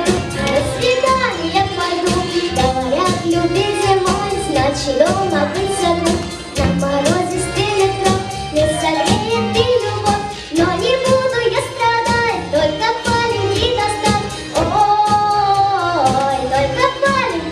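A young girl singing a song in Russian over instrumental accompaniment with a steady beat.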